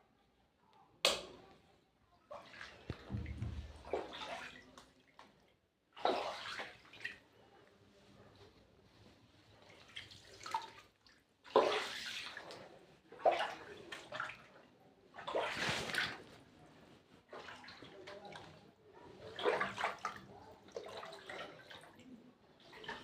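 Water splashing and sloshing in irregular bursts every second or two, starting with a sharp splash about a second in.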